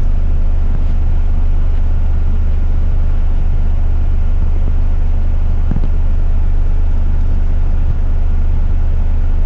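Diesel engine of an 8-wheeler twin-steer front-lift garbage truck running, heard from inside the cab as a steady low drone.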